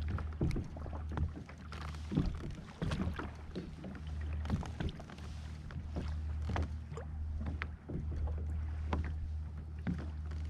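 Water lapping and slapping against a kayak hull, with irregular small knocks and splashes over a steady low rumble.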